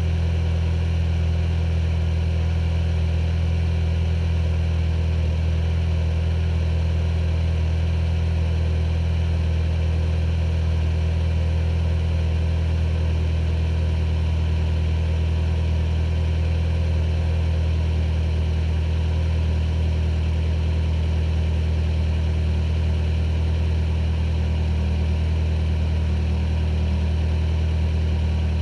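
2014 Hyundai Sonata's 2.4 L four-cylinder engine idling steadily at the tailpipe, a low even hum, while it warms up after a cold start.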